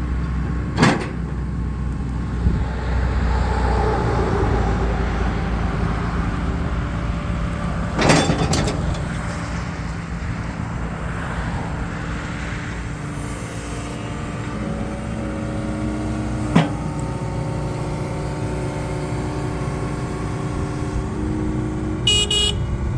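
John Deere 75D excavator's diesel engine running steadily, with a whine that rises and falls as it works and a few sharp clanks about a second in, around eight seconds and around sixteen seconds. A brief high squeal near the end.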